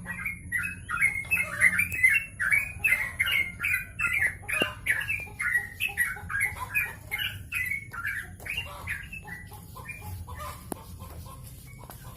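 A songbird singing a rapid string of short chirping notes, about three a second, loudest in the first part and thinning out near the end.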